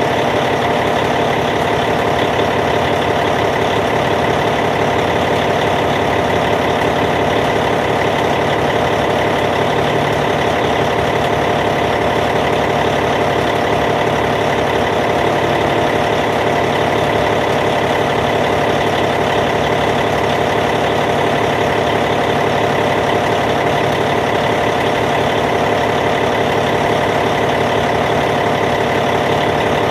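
Caterpillar C15 inline-six diesel engine of a D8T bulldozer idling, a steady, unchanging drone.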